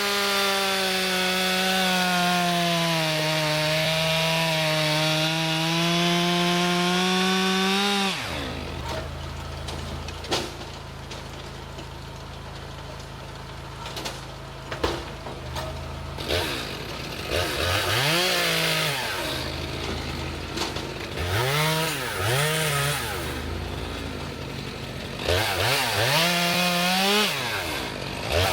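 Stihl two-stroke chainsaw cutting through a log at full throttle for about eight seconds, its pitch sagging under load and recovering. It then drops to idle with a few sharp knocks. In the second half there are several quick revs that rise and fall in pitch, the last near the end going into another cut.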